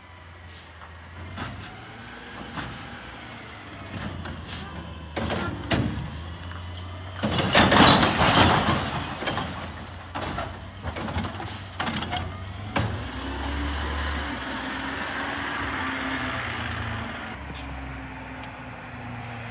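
Peterbilt 520 Heil recycling truck with a Curotto Can at work: the diesel runs while metal clanks and knocks come from the can and arm. A loud rattling rush comes about eight seconds in, then the engine is revved up to drive the hydraulics.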